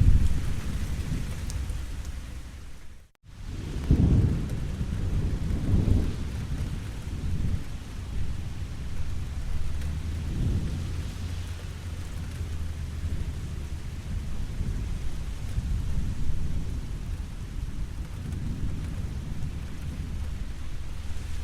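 Steady rain with low rolling thunder rumbles swelling and fading several times. The sound drops out briefly about three seconds in.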